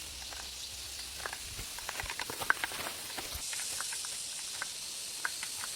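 Food cooking over a fire: a steady sizzling hiss with scattered crackles and pops. The hiss grows louder about halfway through.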